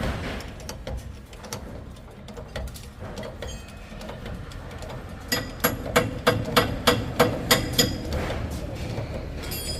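Workshop clatter, then a quick run of about ten hammer blows on metal, roughly four a second, each ringing briefly, starting a little past the halfway point.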